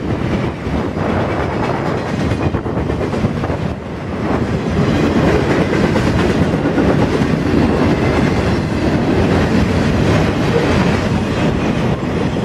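Circus train of loaded flatcars rolling past at speed: steady rumble of steel wheels with clickety-clack over the rail joints. It grows louder about four seconds in.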